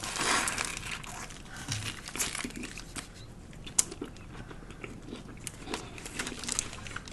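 Paper wrapper crinkling around a lettuce-wrapped sub sandwich as it is handled and eaten close to the microphone, with a louder rustle at the start, then scattered crisp crackles and clicks of biting and chewing.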